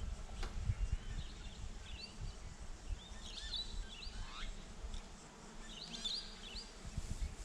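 Small birds chirping: short calls that glide up and down in pitch, coming every second or so, over a low uneven rumble.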